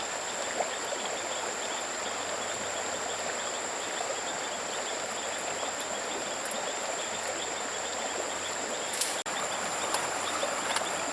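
Outdoor ambience of a running stream, a steady rushing hiss, under a continuous high-pitched insect drone such as crickets. A few short clicks come about nine seconds in.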